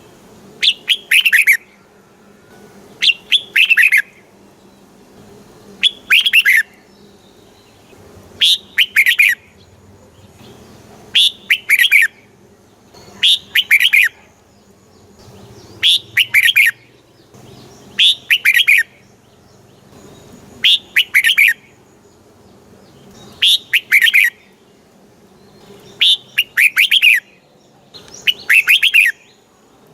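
Red-whiskered bulbul singing: a short, bright song phrase repeated about every two and a half seconds, a dozen times over. Underneath runs a faint steady hum.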